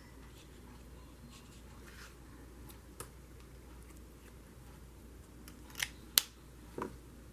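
A few light, sharp clicks and taps over a faint steady hum, the sharpest about six seconds in: markers and paper being handled while colouring.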